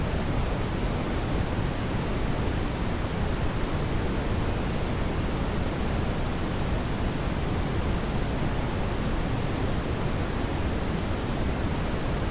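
Steady brown noise: an even, unchanging rushing hiss weighted toward the low end, with no events or changes.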